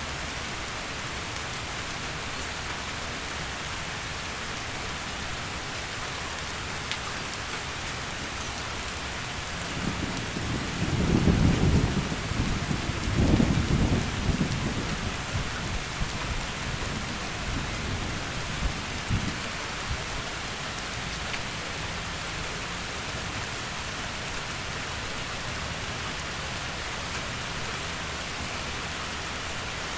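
Steady heavy rainfall, with a roll of thunder rumbling up about a third of the way in, peaking twice and fading out over about ten seconds.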